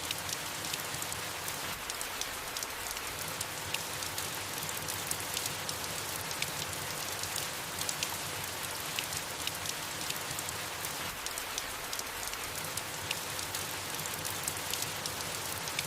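Steady soft rain falling on leaves, a continuous hiss sprinkled with fine individual drop patters.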